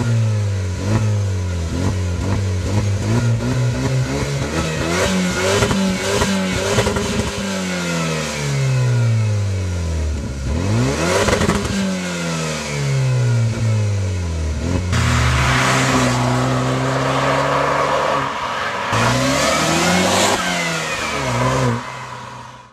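Opel GT's 2.0-litre turbocharged engine and exhaust revving up and down again and again, its pitch climbing and falling through repeated revs. The sound cuts off near the end.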